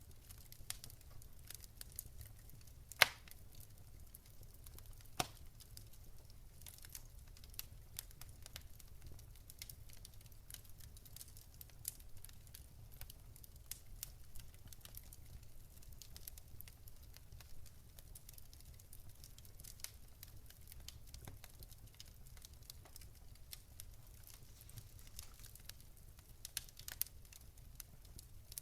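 Wood fire crackling with many small irregular pops and a couple of sharper snaps, the loudest about three seconds in and another about five seconds in, over a low steady hum.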